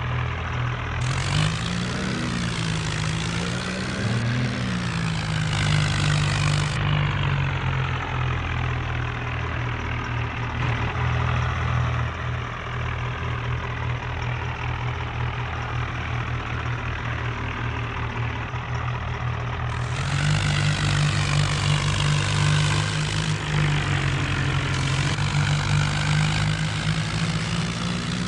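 Modified John Deere tractor's diesel engine running steadily, its pitch rising and falling twice in the first few seconds, and getting louder again about two-thirds of the way through.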